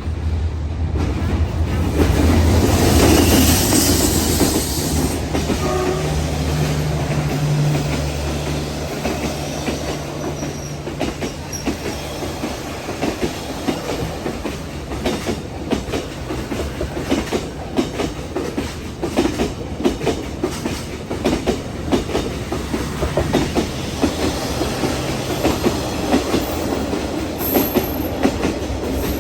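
A diesel-hauled train passing close by. A low engine drone is loudest in the first several seconds, then gives way to a long run of wheels clacking over rail joints as the cars go by.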